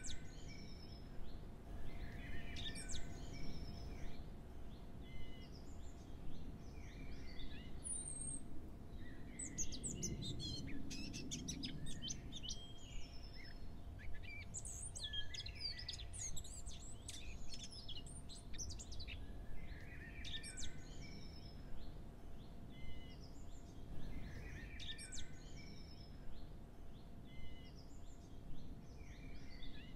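Several birds chirping and singing, short high calls coming in clusters every second or two, busiest near the middle, over a faint steady hum.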